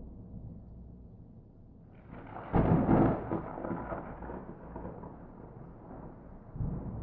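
Thunder without rain: a low rumble builds, then a loud crack about two and a half seconds in, followed by a long rolling rumble that fades. A second, lower rumble swells near the end.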